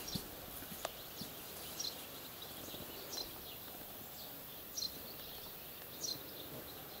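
Quiet rural outdoor ambience with a small bird giving short high chirps, about one every second and a half.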